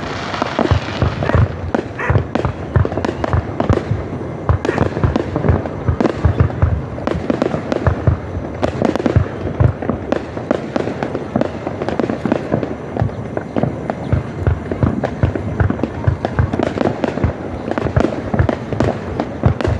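Fireworks display: a dense, continuous run of shell bursts and booming bangs, several a second, with no break.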